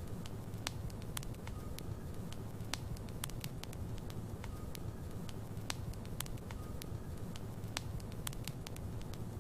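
Wood fire burning in a fireplace: a steady low rumble of the flames with frequent sharp crackles and pops from the logs at irregular intervals.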